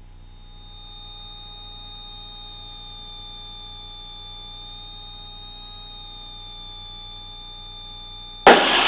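A steady high-pitched electrical whine in the Cessna 172S's intercom audio, over the engine's faint low hum. Near the end comes a short, loud burst of noise.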